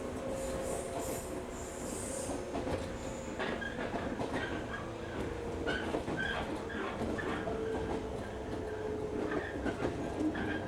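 Onboard sound of a local electric train running on the line: a steady rumble of wheels on rail with a faint whine underneath. From a few seconds in, short squeals and clicks come again and again from the wheels and running gear.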